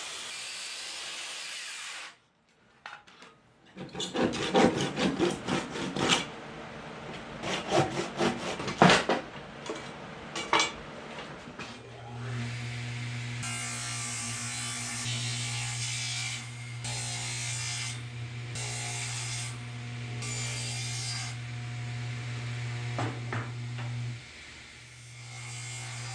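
A saw cutting ash wood in quick, irregular strokes, followed by a woodworking machine's motor running with a steady low hum.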